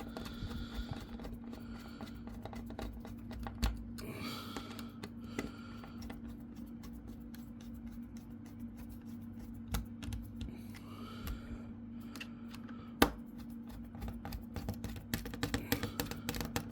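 Small irregular clicks and taps from a screwdriver and laptop parts being handled while the heatsink screws are driven in, with one sharper click about 13 seconds in. A steady low hum runs underneath.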